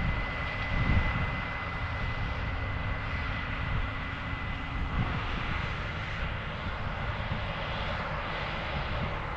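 Combine harvester running steadily while harvesting corn: a continuous engine drone with a thin, steady high whine over it.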